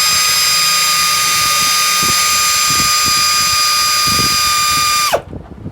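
Electric power drill running at a steady high speed with a constant whine, winding down and stopping about five seconds in.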